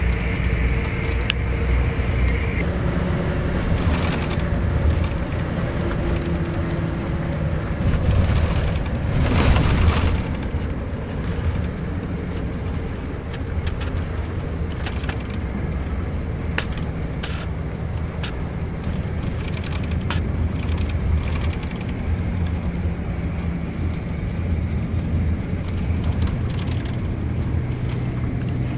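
Scania K410iB bus's six-cylinder diesel and road noise, a steady low hum whose pitch shifts now and then, with scattered clicks and rattles.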